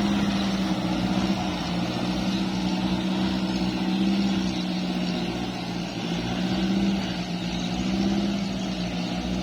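Kubota tractor's diesel engine running at a steady speed, a constant low hum that wavers only slightly in pitch.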